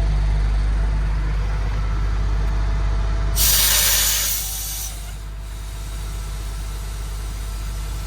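MAN TGX 18.510 truck's diesel engine idling steadily. About three and a half seconds in, a loud burst of compressed-air hiss from the truck's air-brake system lasts just over a second and then fades.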